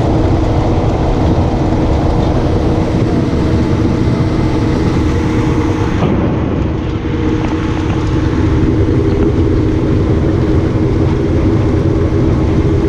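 Small boat running at steady speed: the engine's even drone under a constant rush of wind and water.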